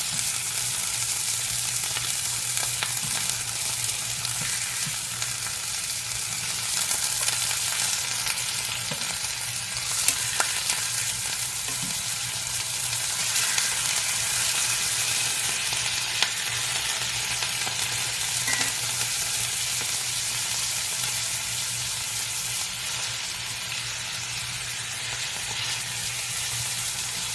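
Chicken thighs frying in olive oil in a cast-iron pan, sizzling steadily with a few sharp pops, as they brown on the outside.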